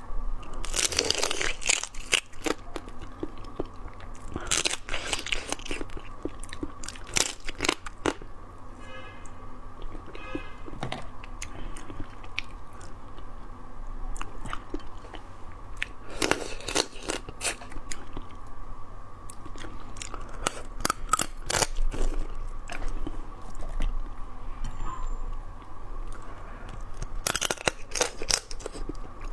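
Close-miked crunching and chewing of chili-marinated crab as the shell and legs are bitten and the meat sucked out. Bursts of crackly crunching come every few seconds, with quieter chewing between them and a faint steady hum underneath.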